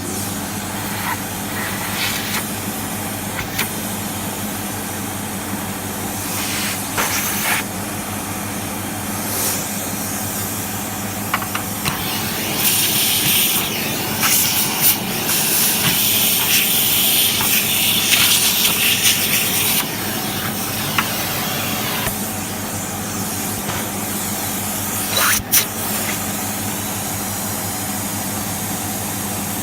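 Sebo X1 vacuum cleaner running steadily, a motor hum under rushing air, as it sucks dust out of a vacuum cleaner's brush roll. The air hiss grows louder for several seconds in the middle, and there are a couple of sharp knocks.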